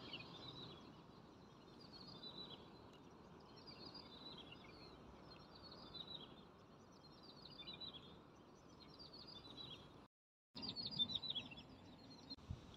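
Faint bird calls, short repeated chirps, over a soft steady background hiss of open air; the sound cuts out completely for about half a second a little after ten seconds in.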